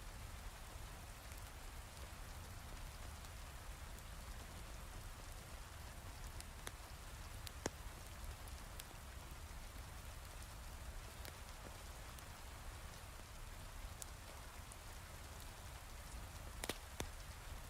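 Heavy rain falling steadily, with a low rumble underneath and a few sharp pops scattered through. The loudest pop comes about eight seconds in.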